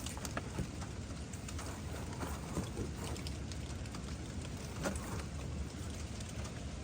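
Steady rain falling, with scattered drops tapping irregularly.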